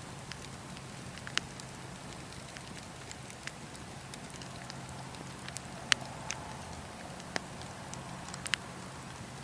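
Wood fire crackling: a soft steady hiss with irregular sharp pops and snaps, the loudest a few seconds apart.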